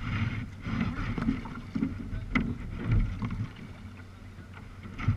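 Sea kayak on the water: paddle splashes and water sloshing against the hull, with a few sharp knocks, one about two and a half seconds in and another near the end.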